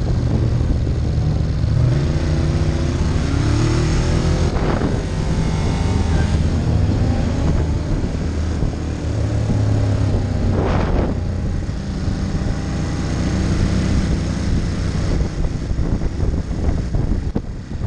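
Ducati Monster 1200's L-twin engine running on the road, revs rising and falling as the bike accelerates and rolls off, over steady wind rush. Two brief whooshes come about 5 and 11 seconds in.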